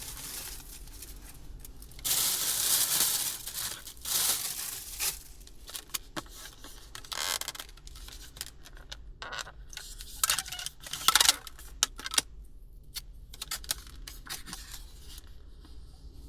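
Paper or plastic takeaway packaging rustling and crinkling in several separate bursts, with scattered small clicks and taps.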